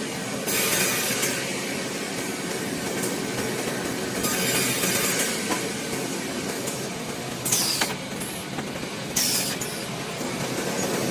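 Wood sawing machine running with a continuous mechanical rattle, the saw's hiss swelling several times as it cuts through wood, with two short squeals in the second half.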